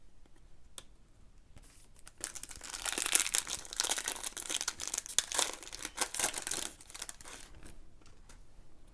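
Plastic-foil trading-card pack wrapper being torn open and crinkled, a dense crackling that builds about two seconds in and dies away near the end.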